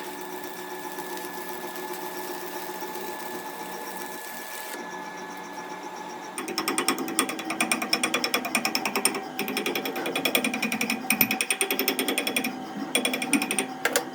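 A steady machine hum, then about six seconds in a power tool starts hammering rapidly, with a few short breaks.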